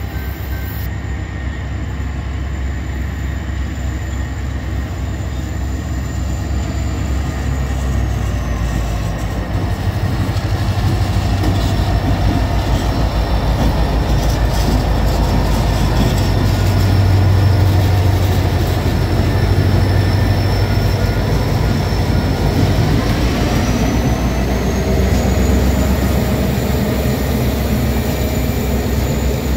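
A freight train passing close by: diesel locomotives led by BNSF 1599 go by with a heavy engine rumble that is loudest about halfway through, and the train of loaded autorack cars then rolls past over the rails.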